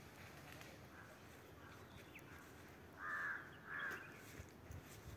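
A bird calling twice, two short harsh calls about half a second apart, a little after three seconds in, over a faint outdoor background.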